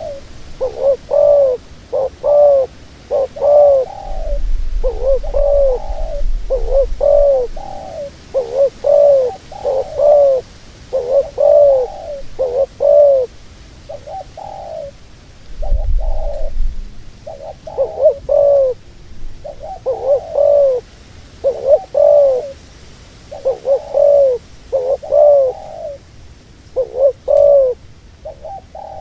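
Dove cooing over and over: a long series of short, arched coos in quick groups separated by brief pauses.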